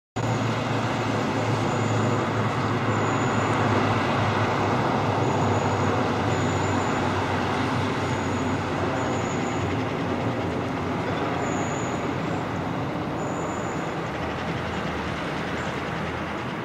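Train running: a steady rumble that fades slowly, with a few short high chirps over it.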